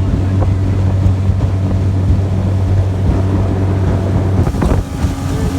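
A fishing boat's motor running steadily, with wind noise on the microphone. About four seconds in, the hum changes abruptly to a higher steady tone.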